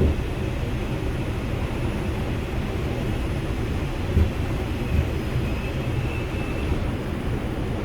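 Steady low rumble and hiss inside a New York City Subway R142 car standing at a station between announcements, with a couple of faint knocks about four and five seconds in.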